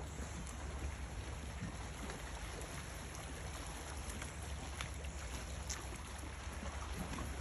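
Steady wind rumble on the microphone over an even hiss of sea water, with scattered light clicks.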